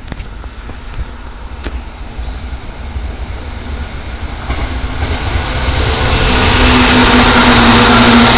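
Seibu Railway electric train approaching and passing close. The rumble of its wheels on the rails builds over about two seconds, starting roughly halfway through, to a loud, steady sound with an even hum in it. There are a few sharp clicks near the start.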